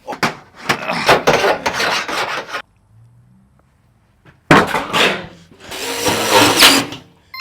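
Sheet metal duct sections being snapped together: two bouts of scraping and clicking metal, the second starting about halfway through after a short pause.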